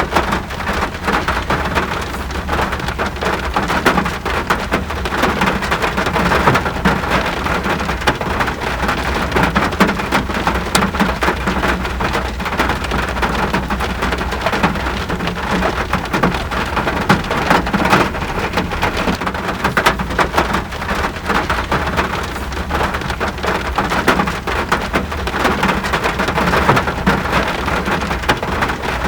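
Steady rain falling in a dense patter of drops, with a steady low rumble underneath.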